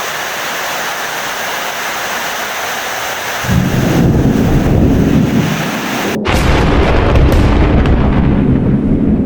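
Steady rain hiss, then about three and a half seconds in a loud, deep thunder rumble rolls in and carries on to the end, broken by a brief dropout in the middle while the rain hiss thins out.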